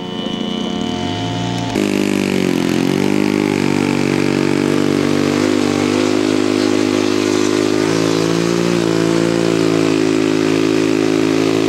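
Radio-controlled scale model airplane engine running steadily at a nearly constant speed, with small dips in pitch now and then. It comes in loudly about two seconds in.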